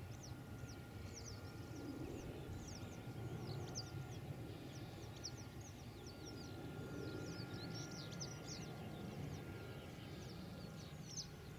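Small birds chirping busily, many short quick calls sweeping downward in pitch, over a steady low rumble.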